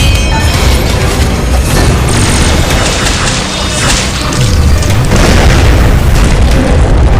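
Loud, dense cinematic booming battle sound effects from a giant mech fighting a huge insect creature, over dramatic background music.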